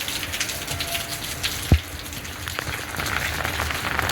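Heavy rain falling steadily, with many drops striking close by, and one sharp tap just under two seconds in.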